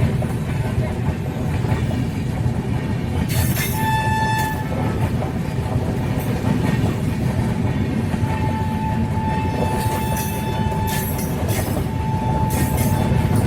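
A train rumbling along the track sounds its horn: a short single-note blast about four seconds in, then a longer blast from about eight to eleven seconds and another just after twelve seconds. Short bursts of hiss come in between.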